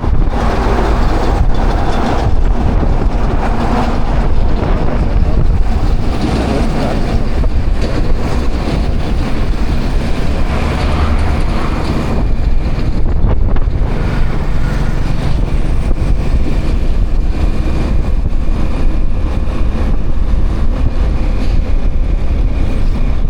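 Wind buffeting the microphone and motorbike road noise while riding along at speed, steady and loud with most of the weight low down.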